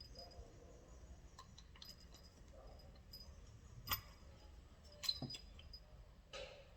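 Faint scattered ticks of metal parts and tools being handled while a starter motor is taken apart, with two sharper clicks about four and five seconds in.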